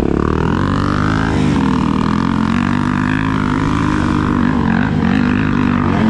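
Dirt bike engine running steadily, its pitch rising and falling a little with the throttle.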